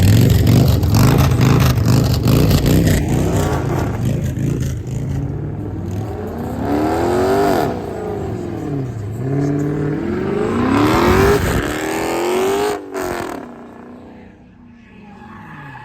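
A car engine running loud with a heavy rumble, then revved hard twice, its pitch climbing and falling back each time, before dropping away near the end.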